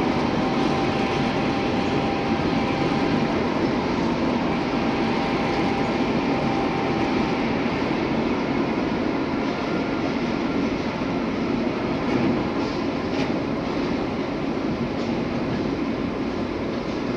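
Cars of a manifest freight train rolling past, a steady rumble of steel wheels on rail. A faint thin squeal runs over the first several seconds.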